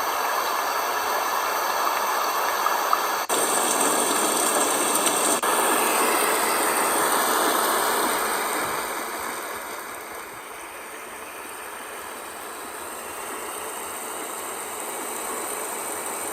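Magicteam white noise sleep machine playing its built-in noise sounds through its small speaker: a steady rushing hiss that breaks off and changes character about 3 and 5 seconds in as it switches from one sound to the next, then gets quieter about 8 to 10 seconds in.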